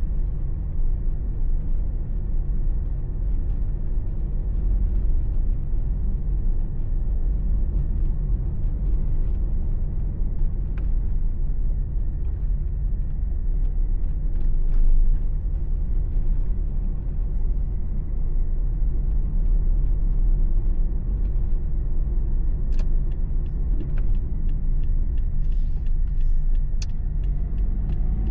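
Car driving along, heard from inside the cabin: a steady low rumble of engine and tyre road noise, with a few faint clicks in the last few seconds.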